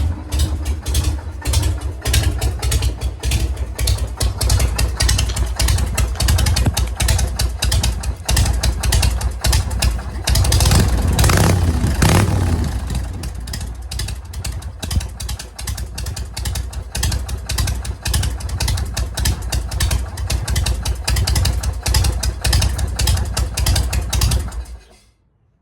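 Harley-Davidson Shovelhead V-twin engine running with a steady, even firing beat, revved up briefly about halfway through, then switched off near the end. It runs without cutting out, the ignition fault cured by a replacement key switch.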